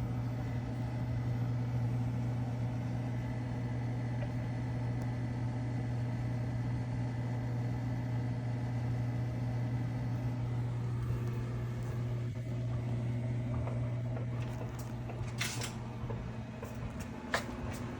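Steady low electrical hum with fan noise from a 5000 W 24 V power inverter running a 1500 W electric heater under load. Two brief clicks come near the end.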